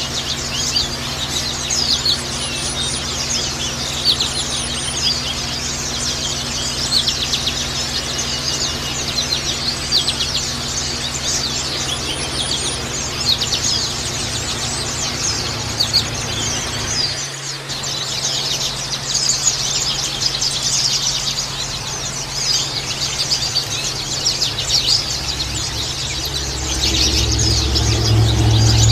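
Several white-eyes (pleci) twittering and chirping nonstop in rapid, high, overlapping calls, over a steady low hum.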